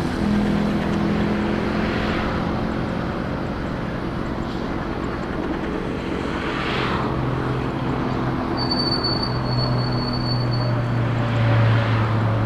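Airliner jet engines running, a loud steady noise with low engine tones, and a thin high whine for a couple of seconds past the middle.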